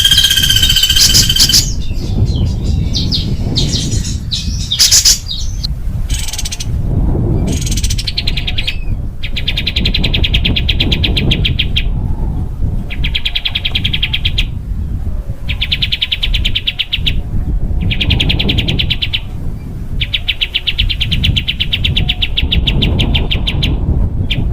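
Small songbird giving a harsh, rapid-fire song used to train cage birds. Scattered chirps give way, about a third of the way in, to a string of very fast buzzy trills, each one to two seconds long with brief pauses between. A low rumble runs underneath.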